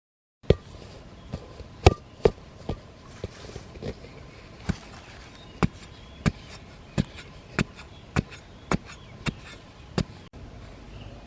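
A series of sharp knocks, like a tool striking or chopping, coming about every half second or so and stopping a little before the end.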